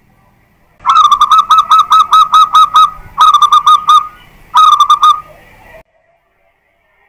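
Zebra dove (perkutut) song: a rapid, loud run of short repeated cooing notes, about five a second, in three phrases, a long one followed by two short ones, ending about a second before the end.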